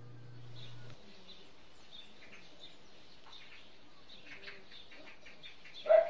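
Small birds chirping again and again in short high calls. A low steady hum stops about a second in, and a dog gives one loud bark near the end.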